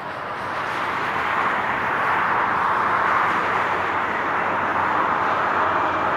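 Highway traffic: a steady rush of tyre and engine noise from passing vehicles, growing louder from about a second in as vehicles draw near.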